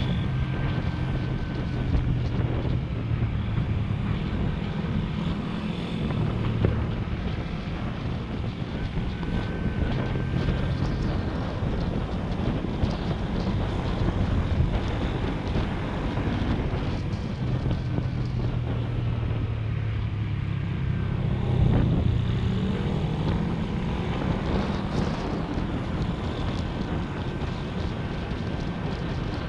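Small motorcycle engine running under way, its note rising and falling with the throttle, with wind rushing over the microphone.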